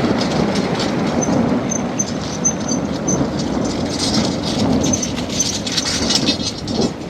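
Thunderstorm noise: a loud, steady rumble under rain that slowly eases off, with a few short high chirps over it.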